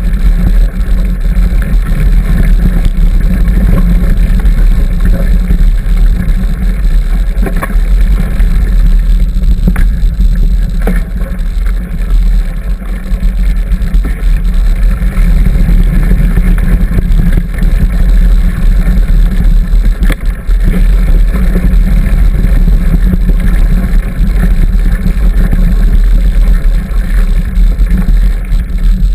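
Steady, loud low rumble of wind buffeting a camera microphone on a moving mountain bike, with a few brief knocks and rattles from the bike over trail bumps.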